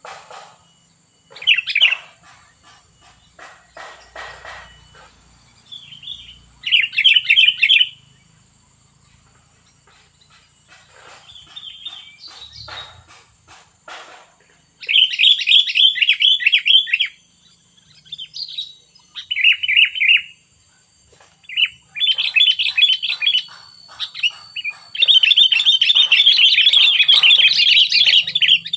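Sooty-headed bulbul (kutilang) singing in repeated bursts of rapid, chattering notes, the longest burst near the end. Faint knocks come between the bursts.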